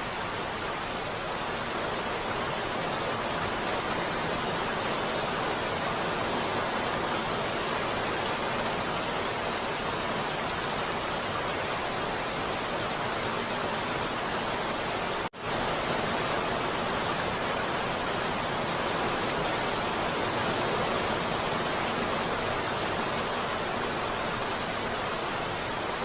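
Heavy rain falling steadily, an even hiss with no distinct drops standing out. The sound cuts out for a split second about halfway through, then carries on as before.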